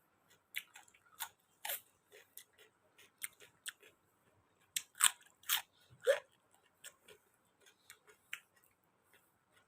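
Someone biting and chewing food: scattered short, crisp crunches and mouth clicks, with a louder cluster about five seconds in.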